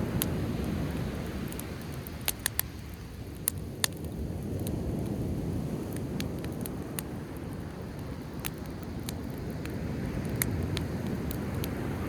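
Driftwood bonfire crackling with scattered sharp pops, several close together a couple of seconds in, over the low rush of sea waves swelling and easing.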